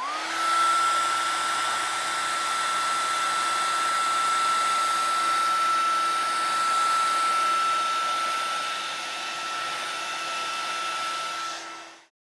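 Handheld hair dryer running: rushing air with a steady high whine, spinning up at the start and switched off near the end. It is heating the car's body panel so the 3M double-sided tape will stick in cold weather.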